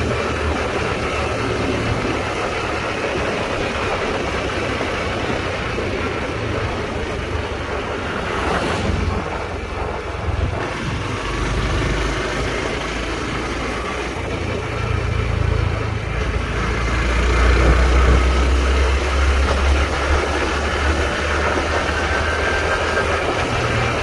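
Honda Trail 125's single-cylinder four-stroke engine running under way, mixed with heavy wind rush and low rumble on the microphone. A sound falls in pitch about nine seconds in.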